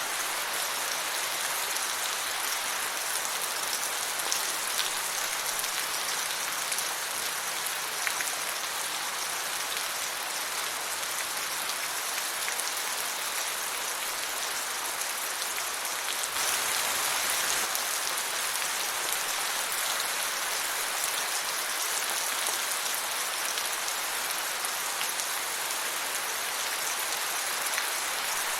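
Steady rain falling, a dense even hiss with scattered drop ticks, growing slightly heavier about halfway through.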